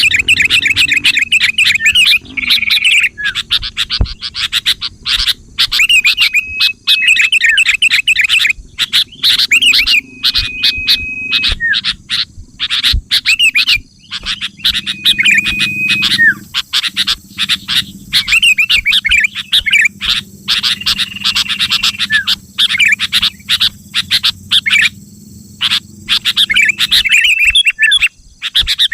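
Sooty-headed bulbul (kutilang) calling: fast chattering runs of short notes, broken now and then by brief held whistles, over a faint low hum.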